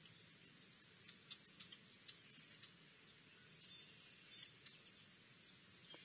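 Faint, scattered high chirps and a few short down-slurred whistles from small birds calling at a distance, over a quiet outdoor hiss.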